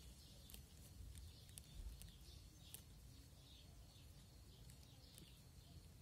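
Faint birds chirping: short calls that come every second or so, with a few sharp ticks, over a low rumble.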